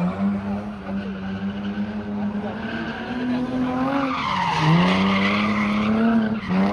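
Car engine held at high revs with tyres skidding. The revs dip briefly a little past halfway and climb back, with a burst of tyre hiss at the dip.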